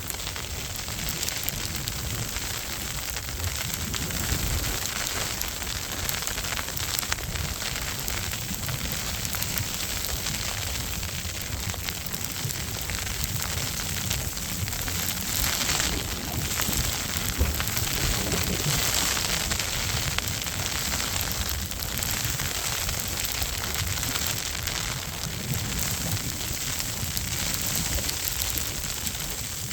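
Snowstorm wind buffeting the microphone: a steady crackling hiss over an uneven low rumble.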